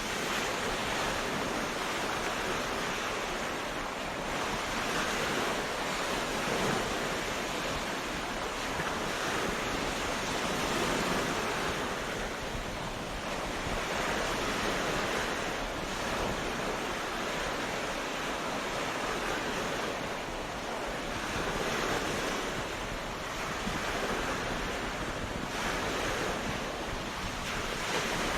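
Ocean surf: waves breaking and washing up a beach in a continuous hiss that swells and eases every few seconds.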